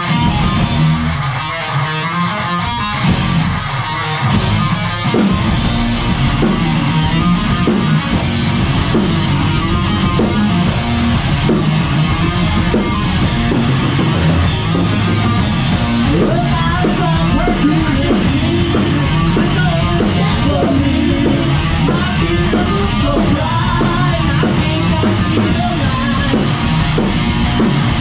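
Heavy metal music with distorted electric guitar; the low end and drum hits fill in after about five seconds, with the full band playing steadily from then on.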